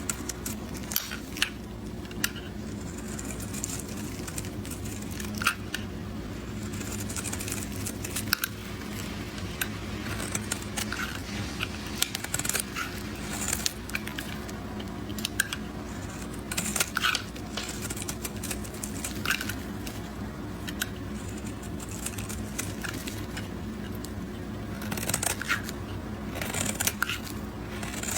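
Blade cutting through a bar of soap into cubes, with repeated crisp crunches and crackles at an irregular pace, thicker for a moment near the end.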